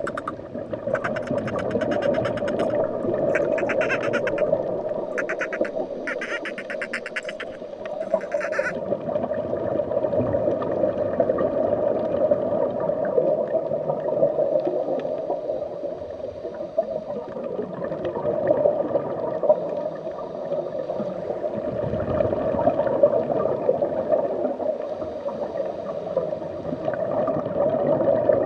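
Dolphin vocalizing underwater: rapid pulsed click trains and squawk-like calls in several groups during roughly the first nine seconds, over a steady drone.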